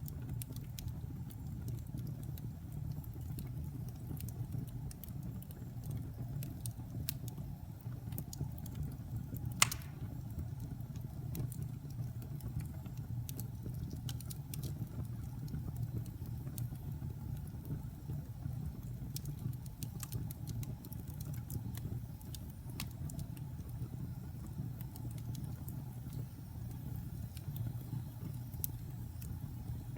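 Wood fire burning in a fireplace: a steady low rumble of flames with scattered crackles of the burning wood and one sharp pop about ten seconds in.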